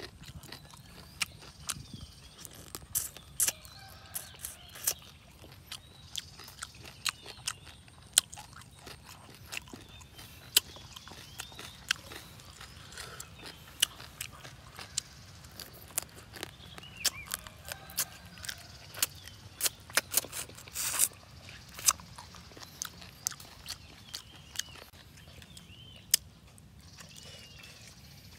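Close-up eating sounds of a man chewing green papaya salad and shrimp: wet smacks, lip clicks and crunches, irregular and several a second, with a dense run of louder smacks about twenty seconds in.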